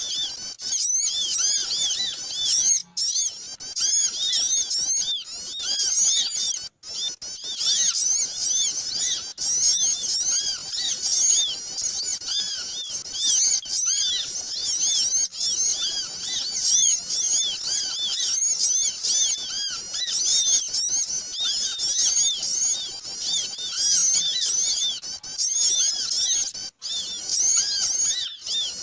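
A dense, noisy chorus of many small songbirds chirping rapidly and overlapping, a lure call for attracting small birds. Three very short gaps break it.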